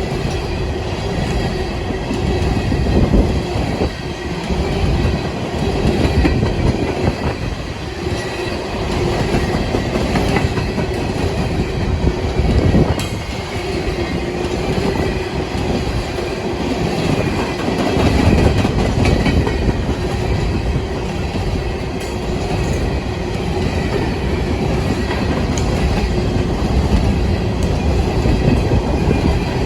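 Long freight train of empty coal hopper cars rolling past, wheels clicking steadily over the rail joints, with a steady hum underneath.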